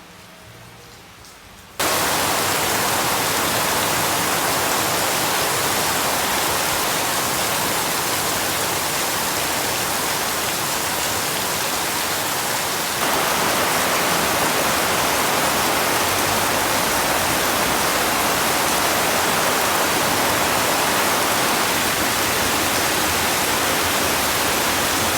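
Heavy rain pouring, a loud steady hiss that starts abruptly about two seconds in and gets a little louder about halfway through.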